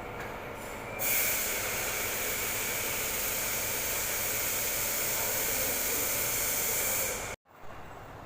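A loud, steady hiss starts abruptly about a second in, holds even and cuts off suddenly near the end.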